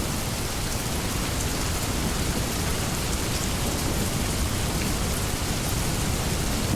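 Steady rainstorm: an even hiss of falling rain with scattered sharp drop ticks, over a low continuous rumble of distant thunder.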